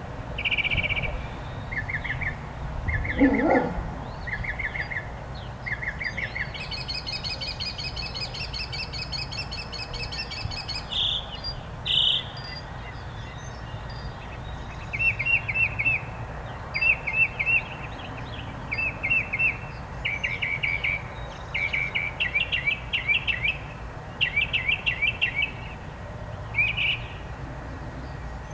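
Several songbirds singing: short trilled phrases repeated every second or so, and a long buzzy trill lasting about four seconds, a quarter of the way in. A short, lower sound about three seconds in is the loudest moment.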